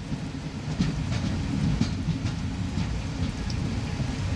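Indian Railways passenger coach running along the track, heard from on board: a steady low rumble of wheels on rail with scattered irregular clicks.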